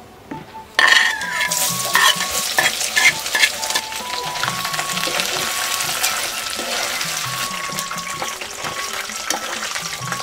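Chopped food dropped into a wok of hot oil about a second in, setting off a loud burst of sizzling that carries on as steady deep-frying. Clicks and scrapes of a metal utensil stirring against the wok come through the sizzle.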